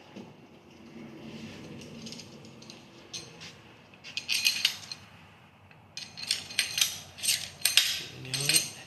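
Metal clinking and rattling of bolts, washers and hand tools, in two bursts of quick clicks, the second longer, as lubed bolts are fitted into a 13B rotary engine's housings.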